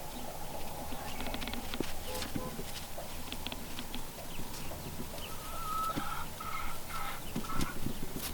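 Chickens clucking and calling, a run of short, repeated calls with some longer pitched notes in the second half.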